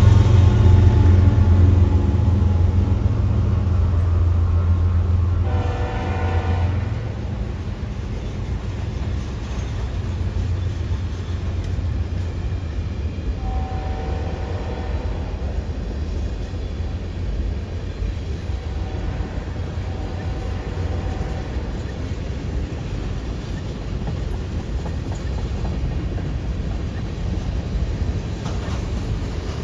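Canadian National freight train passing: the diesel locomotives' engines run loud at first and fade over the first several seconds as the last units go by, leaving the steady rumble of freight cars rolling on the rails. A multi-note train horn sounds about six seconds in, and twice more, fainter, later on.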